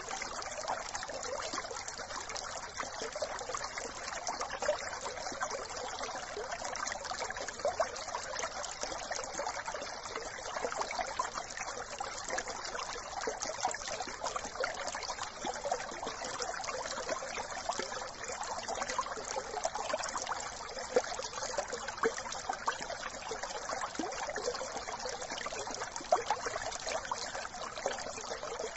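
A small brook trickling and babbling steadily over stones, with little irregular splashes and gurgles throughout.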